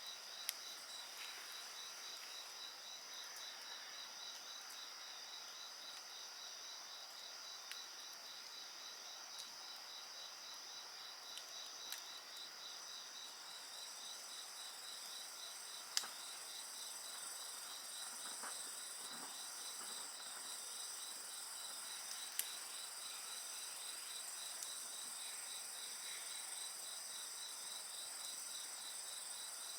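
A chorus of insects trilling steadily in several high pitches, one of them a rapid pulsing trill, with a few sharp pops from a wood bonfire, the loudest about halfway through.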